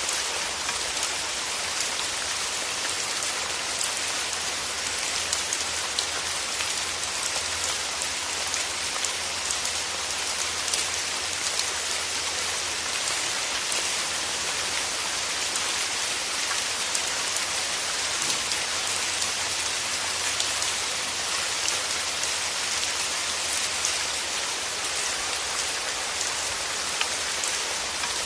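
Steady rain falling: an even hiss of many drops with fine patter, unchanging in level throughout.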